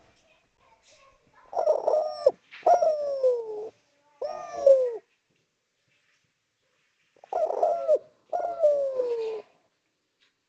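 Spotted dove (derkuku) cooing: a phrase of three coos, then after a pause of about two seconds two more. Each coo slides down in pitch.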